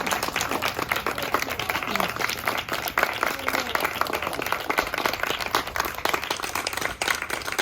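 Audience applauding: many hands clapping in a dense, steady patter, with a few voices mixed in.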